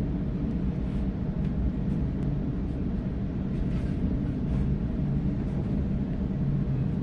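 Steady low rumble and hum of a Sydney Trains Waratah A-set electric train running between stations, heard from inside the carriage, with faint light clicks from the wheels and track.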